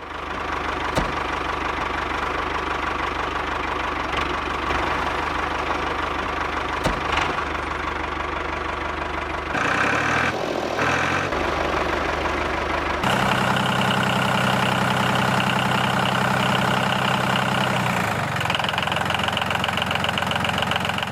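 A small motor running steadily. About ten seconds in its note wavers, and from about thirteen seconds on it settles into a steady, stronger hum.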